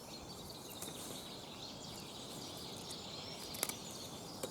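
Quiet outdoor background with faint bird chirps and insect sounds, broken by a few faint short clicks.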